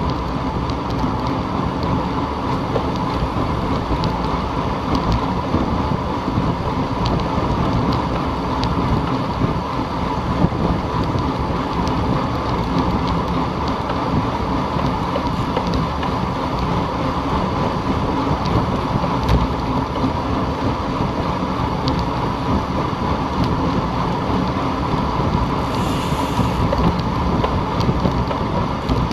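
Steady wind rushing over the microphone of a moving camera, mixed with continuous rolling noise.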